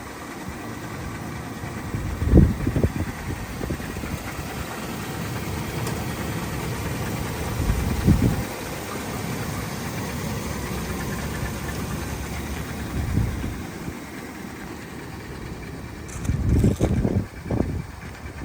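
2008 GMC Savana 2500 box truck's engine idling steadily, with a few short low thumps: one about two seconds in, one about eight seconds in, and a cluster near the end.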